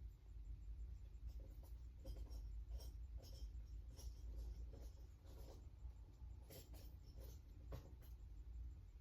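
Faint, irregular clicks and scrapes of hand tools working on bolts, over a low steady hum.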